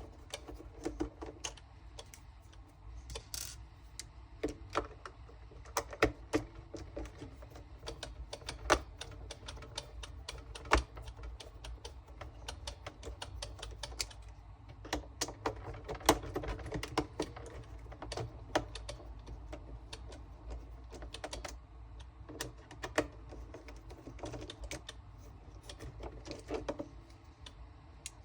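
Irregular clicks and taps of hard plastic parts being handled: the side brush motor module of a Xiaomi robot vacuum being pulled out of the base and set down.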